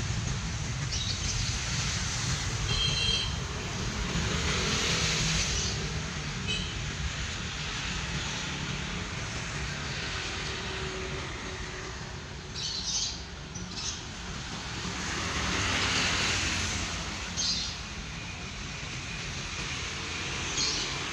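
Freight train of covered cement wagons rumbling away into the distance, with passing road traffic swelling and fading and a few bird chirps.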